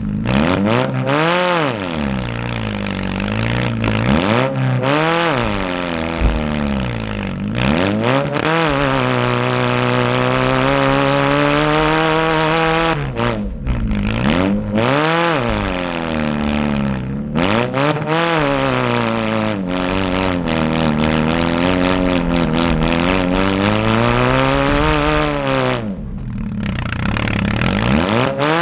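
Small demolition-derby cars' engines revving up and falling back again and again, with short bursts of clatter and scraping metal.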